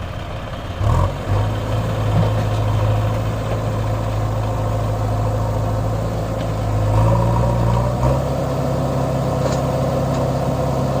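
John Deere 5050D tractor's three-cylinder diesel engine running under load while pulling a loaded trolley. The engine note jumps up about a second in and climbs again around seven to eight seconds as engine speed rises, then holds steady.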